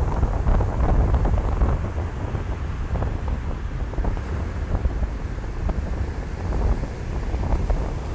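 Ocean surf washing onto a beach, with wind buffeting the microphone as a heavy low rumble. The surf swells and eases, loudest near the start.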